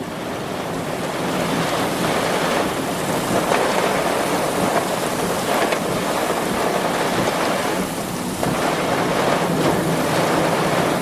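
Heavy rain pouring down in a severe thunderstorm, with wind on the microphone: a dense, steady wash that swells a little now and then, over a low steady hum.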